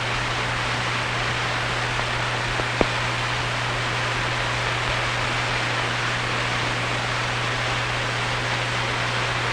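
Steady hiss with a low hum underneath, the background noise of an old film soundtrack, with one sharp click a little under three seconds in.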